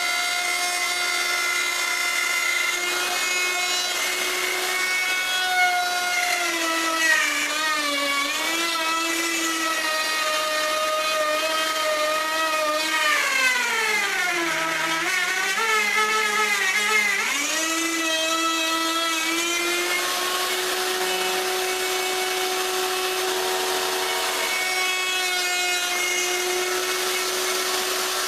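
Electric router running with a steady high whine as its bit cuts wood. The pitch sags twice as the motor loads up in the cut, the second time deeper and longer, around the middle, then climbs back to full speed.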